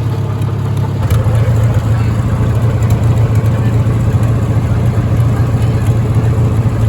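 An engine running with a steady low drone that gets louder about a second in.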